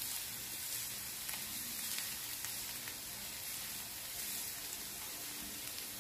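Chopped onion, garlic and green chillies sizzling steadily in coconut oil in a cast iron skillet while being stirred with a wooden spatula, with faint ticks of the spatula against the pan. The mix is being sautéed until the raw smell of garlic and onion goes.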